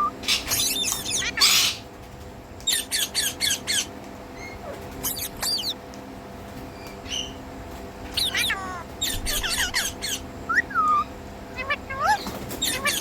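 Indian ringneck parakeet squawking in repeated bursts of rapid, harsh calls, with a few short rising whistles in the second half, over a steady low hum.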